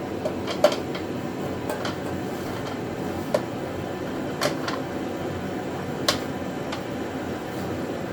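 A few light clicks and knocks, spaced irregularly about a second apart, from metal welding-cart parts being handled during assembly. A steady background hum runs under them.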